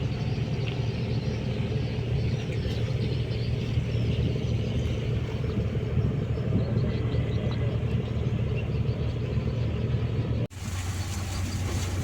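River boat's engine running steadily with a low hum and water and wind noise, heard on board. About ten seconds in it cuts out for an instant, then carries on with more hiss.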